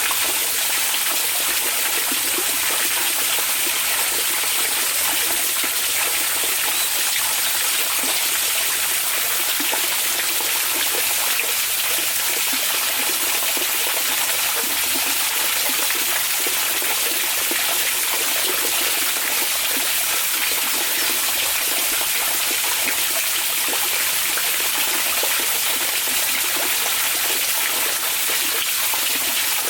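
Hot spring water flowing and trickling steadily, an even, unbroken hiss that never changes in level.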